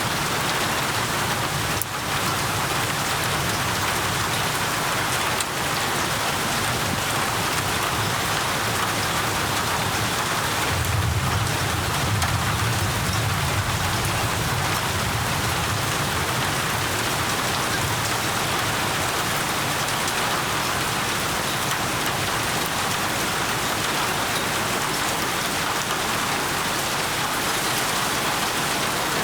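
Steady, heavy rain falling on surfaces, a dense even hiss. About eleven seconds in, a low rumble of distant thunder swells for several seconds and fades.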